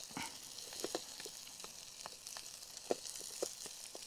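A quesadilla made with a low-carb wrap and cheese sizzling faintly in a dry, seasoned frying pan over a charcoal camp stove. Scattered small crackles and clicks run through a steady hiss.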